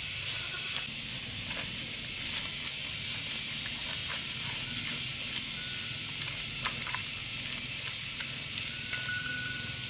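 Steady high-pitched hiss with scattered light clicks and taps.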